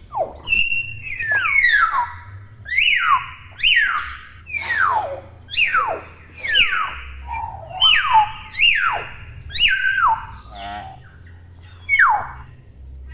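Young common hill myna calling over and over: a series of loud whistles that each slide steeply downward in pitch, about one a second, mixed with a couple of harsher, raspy calls.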